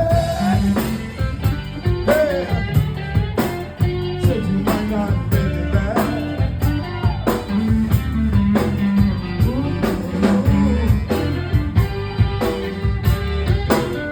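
A rock band playing a blues-rock song: electric guitar with bending notes over bass and a steady drum beat.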